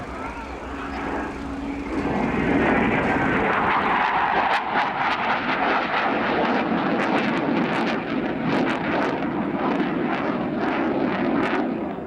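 Eurofighter Typhoon jet flying past, a loud roar that builds about two seconds in, with sharp crackling through it, then drops away quickly at the end.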